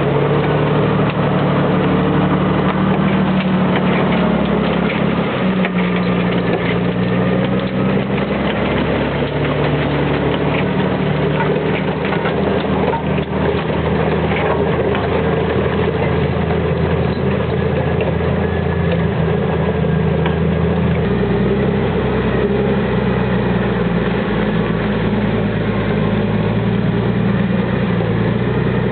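Valtra T131 tractor's diesel engine running steadily, its engine speed shifting down a little about five seconds in and changing again about twenty seconds in. Faint clicks and knocks come through in the middle part.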